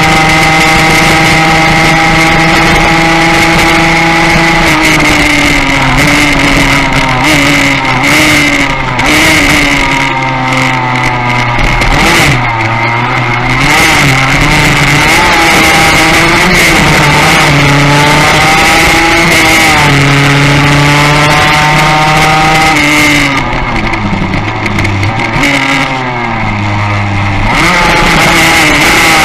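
Yamaha racing motorcycle engine heard from on board, running at high revs under race load. The pitch holds high and then drops twice as the bike slows for bends, climbing again near the end as it accelerates out.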